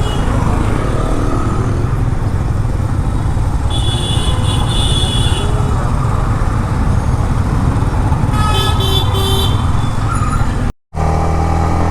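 Steady low rumble of a motorcycle riding on the road, with vehicle horns sounding twice, about four seconds in and again after eight seconds. The sound drops out briefly near the end.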